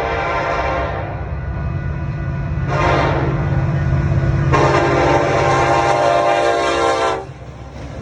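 Diesel locomotive air horn sounding: a long blast ending about a second in, a short blast about three seconds in, then a long blast of nearly three seconds, over the steady rumble of the locomotive and train. The long-short-long ending matches the horn pattern sounded for a grade crossing.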